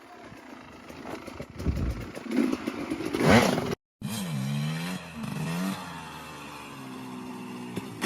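Dirt bike engines: rattling and a rising rev, then, after a break, an engine revving down and up twice before holding a steady pitch.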